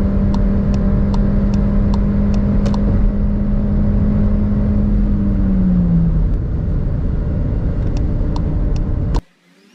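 Seat Ateca FR's 1.5 TSI engine droning steadily at high Autobahn speed over heavy road and wind noise, heard from inside the car. The engine note drops slightly about six seconds in. A regular ticking runs through the first three seconds and again near the end, and everything cuts off abruptly about nine seconds in.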